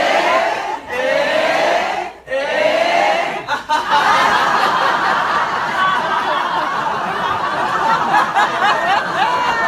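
A roomful of people doing laughter yoga: a few rising calls from many voices together in the first three seconds or so, then the whole group laughing at once.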